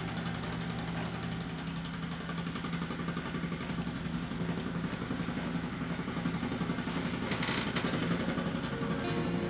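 Construction machinery running steadily with a low hum and a rapid chatter, and a brief noisy burst about seven and a half seconds in.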